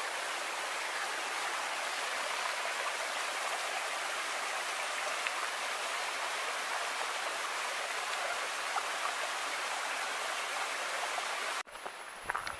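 Running water of a forest stream, a steady rushing sound that cuts off abruptly near the end, giving way to much quieter outdoor sound.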